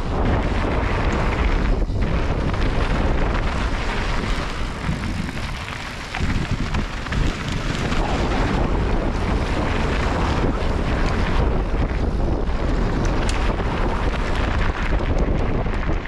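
Wind buffeting the camera microphone while riding an electric mountain bike, a steady rushing noise heavy in the low end.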